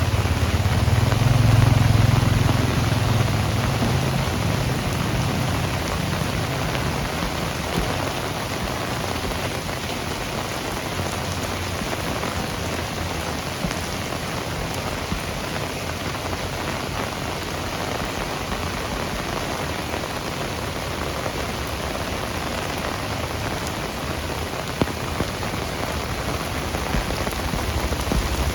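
Heavy rain falling steadily. A low rumble swells in the first few seconds and fades out.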